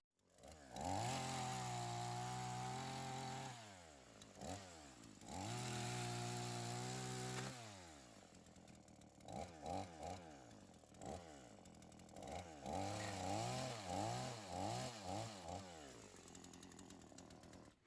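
Two-stroke chainsaw being revved: two long runs at high revs, each held a couple of seconds before dropping back, then a string of short throttle blips. It is a saw that the owners say has been giving them problems.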